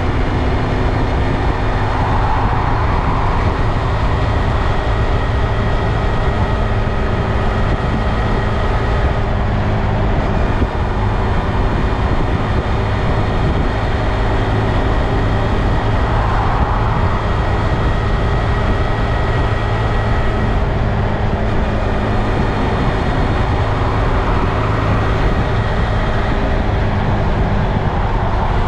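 2022 Honda Grom's 124 cc single-cylinder engine running at a steady pitch, with a steady rushing noise over it.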